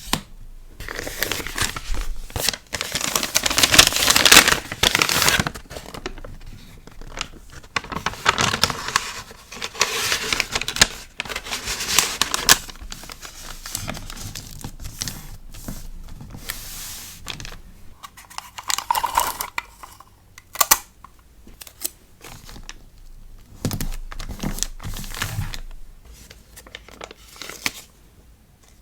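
Packaging being handled while packing an order: crinkling and tearing of paper or plastic wrapping, in bursts with short pauses and a few sharp clicks.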